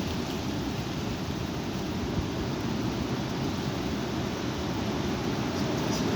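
Strong wind buffeting the microphone: a steady low noise that grows slightly louder near the end.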